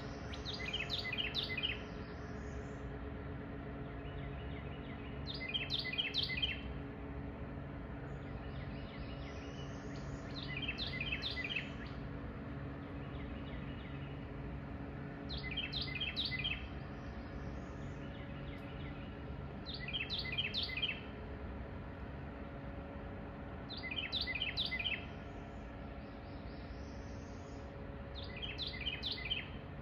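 A songbird sings the same short, quick-noted song seven times, about every four to five seconds. Underneath runs a steady low engine drone from the diesel towboat pushing the coal barges.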